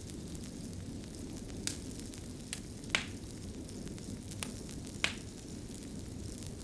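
Crackling fire: a steady low hiss and rumble of burning, broken by about five sharp pops and snaps, the loudest about three seconds in.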